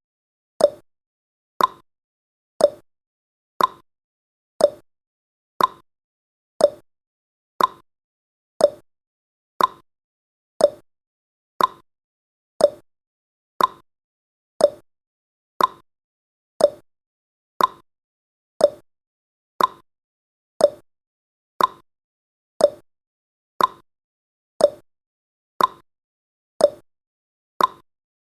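Countdown timer's clock-tick sound effect, one short sharp tick each second, evenly spaced.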